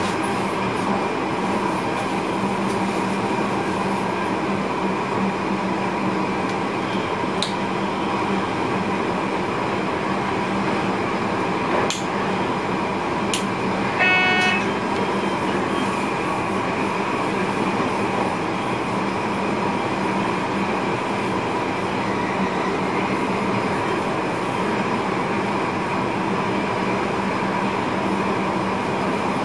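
Steady running noise of an electric passenger train heard inside the driver's cab, with a constant hum. About halfway through, a short pitched signal tone sounds for about half a second, after a few faint clicks.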